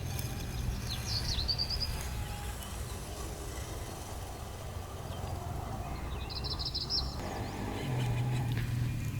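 Birds chirping in woodland: a short chirp about a second in and a quick trill of chirps near the six-second mark, over a steady low rumble.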